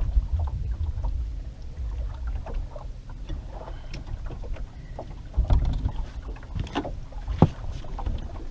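Wind buffeting the microphone as a steady low rumble, with scattered light knocks and clicks and one sharper knock near the end.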